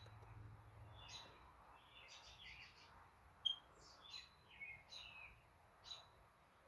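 Faint, scattered bird chirps: short high calls of varying pitch, irregularly spaced, against a quiet room.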